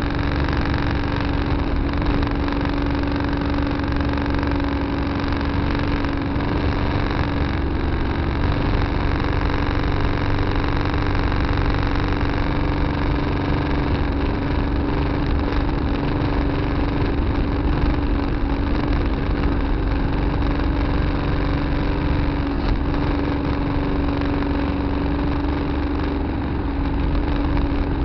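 Tractor engine running at a steady speed, a constant drone with no revving.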